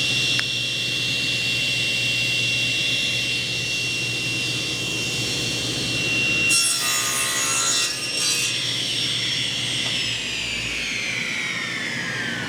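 Miter saw motor running at full speed with a steady high whine. The blade cuts through a wooden board about six and a half seconds in, for a second or two. Then the trigger is released and the motor winds down, its whine falling in pitch as the blade slows.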